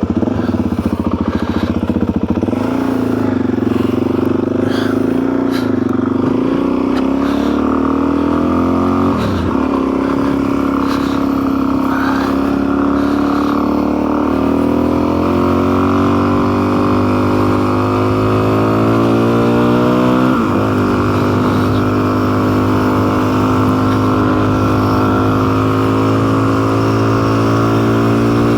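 Motorcycle engine pulling away and accelerating through the gears: its pitch climbs steadily, then drops sharply at an upshift about nine seconds in, again about twenty seconds in, and once more right at the end.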